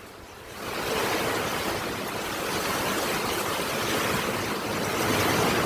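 Heavy thunderstorm rain pouring down with strong wind, a steady rushing noise that swells up about a second in and then holds.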